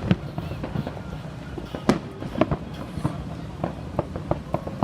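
Fireworks going off: a rapid, irregular string of bangs and crackles, the loudest about two seconds in.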